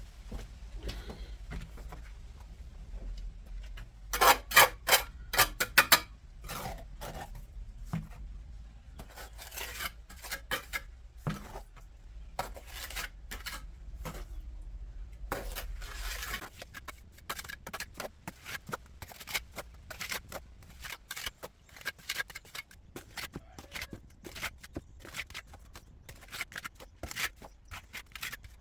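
Hand work with tools: a run of short scrapes and clicks, with a cluster of louder sharp knocks about four to six seconds in.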